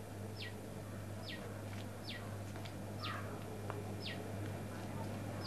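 A bird calling a short falling whistle, repeated about once a second, over a steady low hum.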